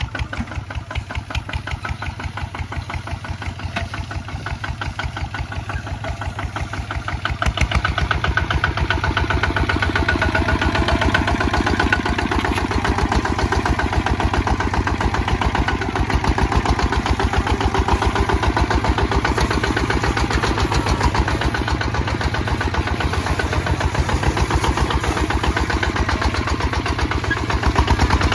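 Kubota ZT155 DI single-cylinder diesel engine running with a steady, even chugging, which gets louder about seven seconds in.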